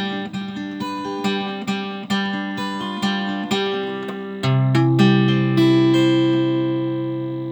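Acoustic guitar playing the closing bars of a folk song: a run of picked notes, then a final chord struck about four and a half seconds in and left ringing as it slowly fades.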